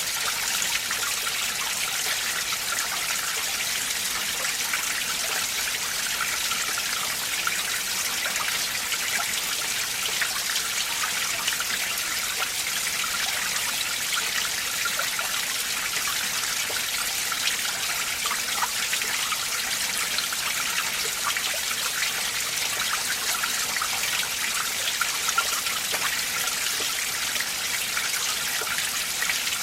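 Winter mountain stream running over rocks: a steady, bright rush of trickling and splashing water.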